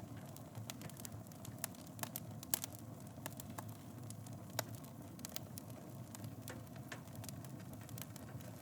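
Fireplace fire crackling, with irregular sharp pops over a low steady rumble of the flames. The loudest pops come about two and a half seconds in and again just past halfway.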